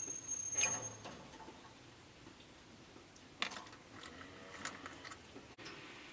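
Light, irregular clicks and taps from a rosy-faced lovebird in its cage, clustered about a second in and again in the middle, with a thin high whistle during the first second.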